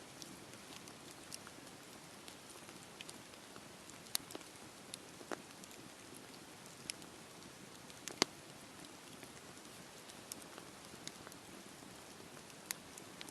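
Wood fire burning in a fireplace: a soft steady hiss with scattered sharp crackles and pops, the loudest about eight seconds in.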